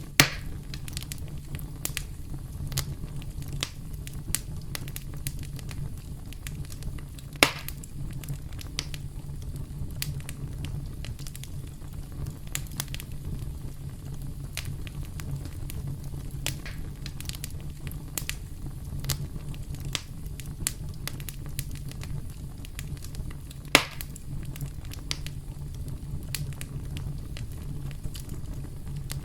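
Campfire burning with a steady low rumble and many small crackles. Three sharp loud pops stand out: one right at the start, one about seven seconds in, and one near 24 seconds.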